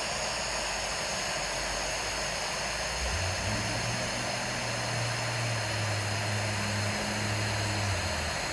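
Steady outdoor hiss from the nest camera's microphone, with a low, steady engine drone coming in about three seconds in.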